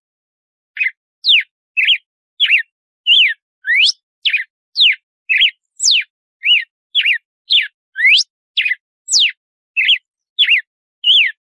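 Red-cowled cardinal (galo-de-campina) singing its 'açoite' song: a fast, even string of clear whistled notes, about two a second, each sweeping steeply up or down in pitch. The song starts about a second in after a short silence.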